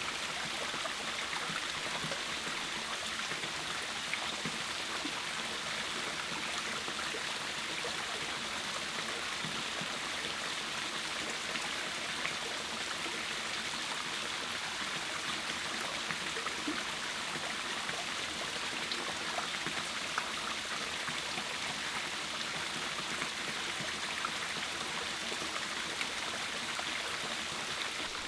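Steady rushing of water, with scattered faint ticks.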